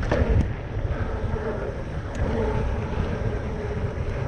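Mountain bike riding fast down a dirt trail: wind buffeting the microphone over a low rumble of tyres on the ground, with a few sharp clicks and rattles from the bike.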